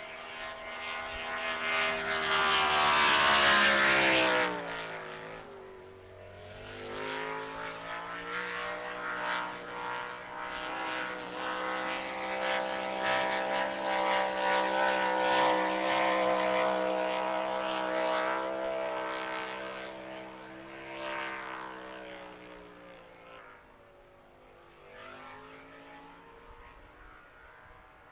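Grand Prix hydroplane racing engine running hard. It passes close about four seconds in with a falling pitch, runs on at a high steady pitch, then fades into the distance near the end.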